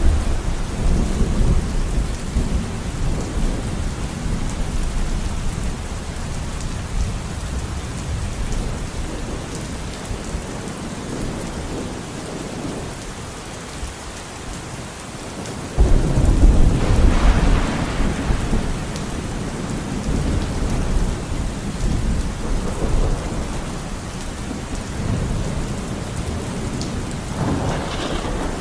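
Steady rain with rolling thunder. A loud thunderclap breaks in suddenly just past halfway and rumbles on for several seconds.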